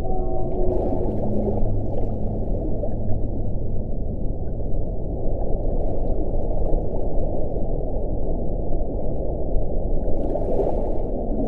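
Wind blowing steadily, a deep, low rushing with faint moaning tones in the first few seconds.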